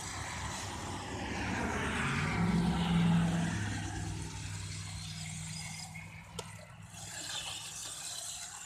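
ECX Torment 4WD RC truck driving through grass: a steady electric-motor whine under a rustling hiss from the tyres and chassis, loudest about three seconds in. A single small click comes about six seconds in.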